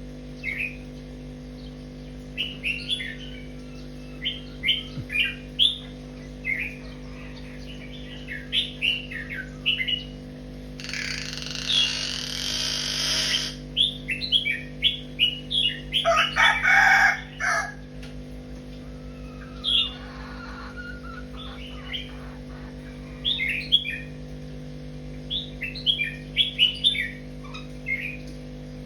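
Small birds chirping in short, repeated calls, with a louder rooster crow about halfway through. A steady low hum runs underneath.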